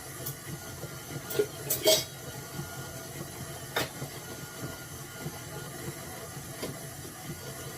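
A few sharp clinks and taps of kitchen utensils and dishes, several close together about two seconds in and one more near four seconds, over a steady low mechanical hum.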